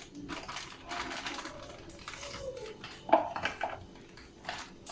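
A measuring cup scooping plain flour from a container: soft scraping and rustling of the flour, with a sharp clink of the cup against the container just after three seconds in and a couple of lighter knocks after it.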